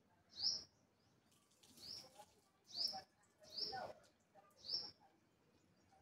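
A bird calling in a series of short, sharp chirps, five in all, roughly one a second, each with a high hooked note on top.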